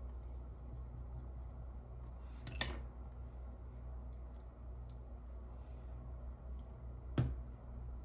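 Small clicks and ticks of hands handling small lens parts and tools, with two louder taps, over a steady low hum.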